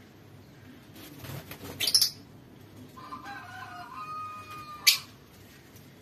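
Birds calling: two sharp, shrill squawks, the louder about two seconds in and another near the end, with a drawn-out call of about two seconds between them.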